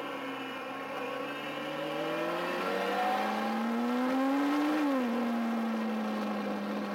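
2009 Kawasaki ZX-6R sportbike engine under way. It revs up steadily for about four seconds, its pitch climbing, then drops sharply about five seconds in, as on an upshift, and runs on at a steady note.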